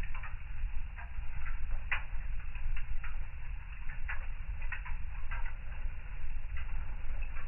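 Wood fire crackling in a fireplace: irregular sharp pops and snaps over a low, steady rumble, with the strongest snap about two seconds in.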